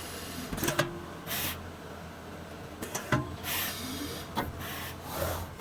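Automatic tool-change CNC router working: a steady low machine hum broken by short hisses of air and sharp mechanical clacks every second or two.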